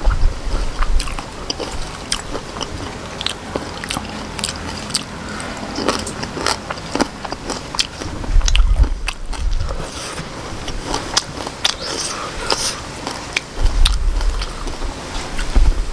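Close-miked chewing and biting of octopus with Khmer rice noodles: a steady run of short clicks from the mouth, with a few low thuds about halfway through and near the end.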